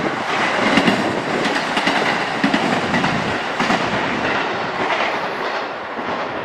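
Passenger train passing close by, its wheels clacking over the rail joints amid the steady rumble of the cars.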